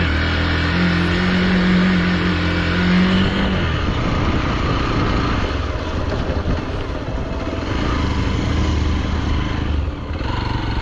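Hero Xpulse 200 motorcycle's single-cylinder engine running under way. It holds a steady note for about three and a half seconds, then the pitch drops and it runs rougher.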